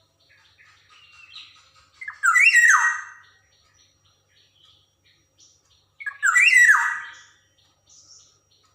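Black-naped oriole giving two loud, harsh calls about four seconds apart, with faint quick chirps before the first.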